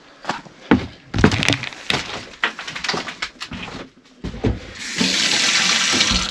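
Knocks and clatter of objects being handled, then about five seconds in a stream of running water, like a tap, for about a second and a half before it cuts off.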